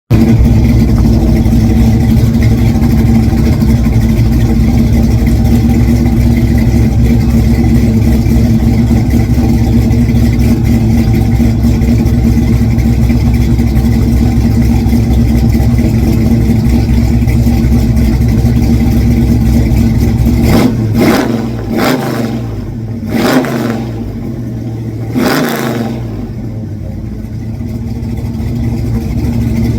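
Car engine running loud and steady, then revved in several quick blips a little past two-thirds of the way through.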